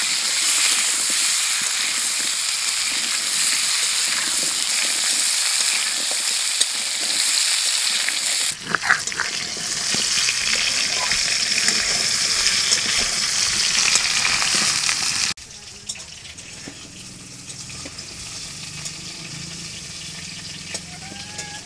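Potato wedges frying in hot oil in a wok, a loud steady sizzle with stirring. About eight seconds in it gives way to the rasping scrape of a stone muller grinding ginger and green chillies on a flat grinding stone. At about fifteen seconds it drops to a much quieter background.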